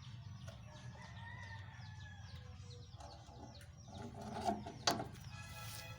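Chickens clucking and small birds chirping rapidly, over a steady low hum, with one sharp click about five seconds in.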